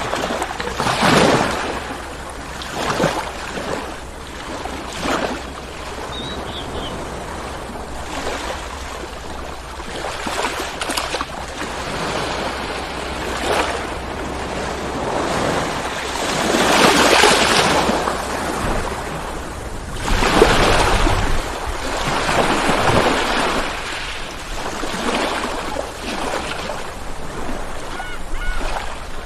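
Ocean waves breaking and washing in, repeated surges of surf every few seconds, the largest about halfway through, over a steady low rumble.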